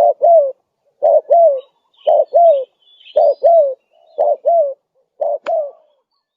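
Spotted dove cooing: pairs of short coo notes, each note rising then falling, repeated about once a second, six pairs in all. There is a sharp click near the end.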